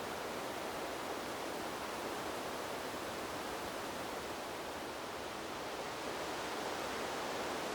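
Wind blowing through a bamboo grove: a steady, rushing rustle of leaves and stems that eases slightly around the middle and swells again near the end.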